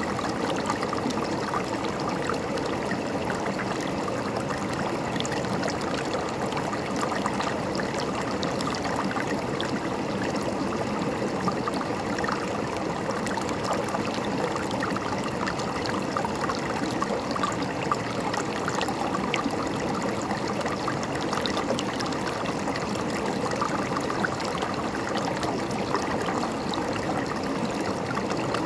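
A river's water running and gurgling over rocks, steady throughout.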